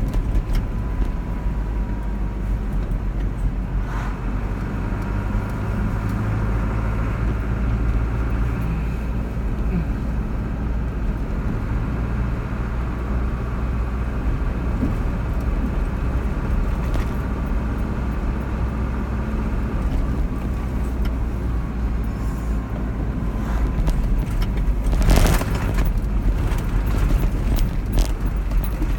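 Car driving on a road, heard from inside the car: a steady low rumble of engine and tyres, with a brief louder rush about 25 seconds in.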